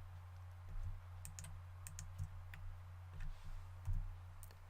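Computer mouse clicking, about nine sharp clicks at irregular intervals, heard over a steady low electrical hum.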